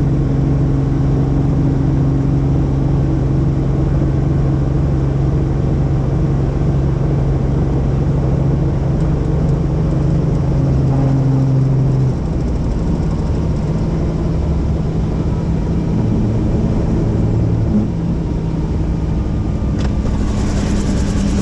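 Helicopter running with a steady, loud engine and rotor drone; its low hum shifts to a different pitch about halfway through, and a high hiss comes up near the end.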